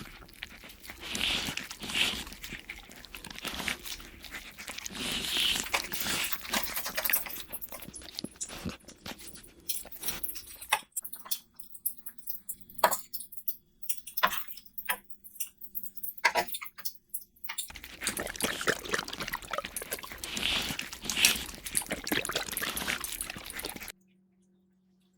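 Close-miked eating sounds: crunchy chewing and biting, with a quieter stretch in the middle of separate wet, sticky mouth clicks. It drops to near silence shortly before the end.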